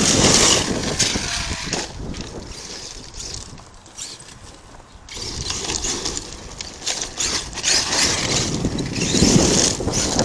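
ARRMA Kraton 8S electric RC monster truck driving hard over dirt and gravel: the brushless motor whines and the tyres churn the ground, with wind buffeting the microphone. The sound drops away for a couple of seconds midway, then comes back up and is loudest near the end.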